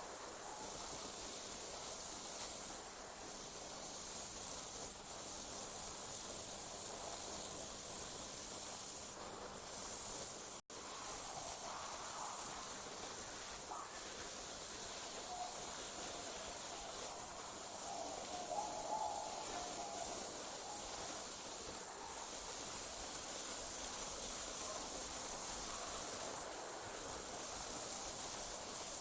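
Night insects trilling: a steady, high-pitched chorus that breaks off briefly every few seconds. The sound cuts out for an instant about ten seconds in.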